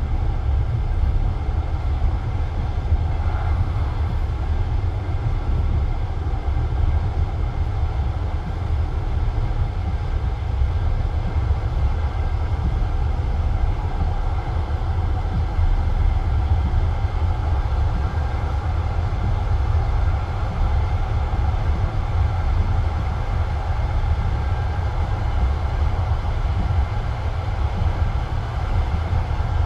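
Passenger train carriage running along the track, a steady rumble of wheels on rails heard from inside the carriage.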